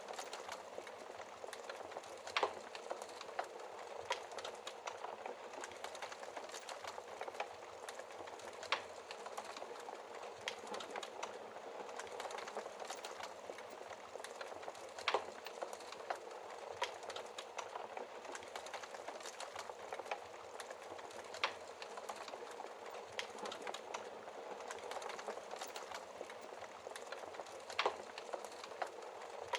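Wood fire crackling in a fireplace: a steady hiss with a dense run of small crackles and a sharper pop every few seconds.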